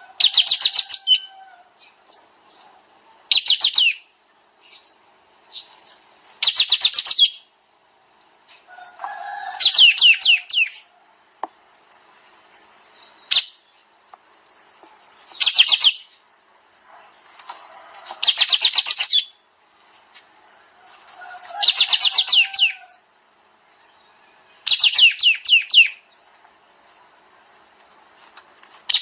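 Kapas tembak songbird singing in rapid-fire bursts: tight runs of fast, high notes lasting about a second, repeated roughly every three seconds, with softer chirps between them.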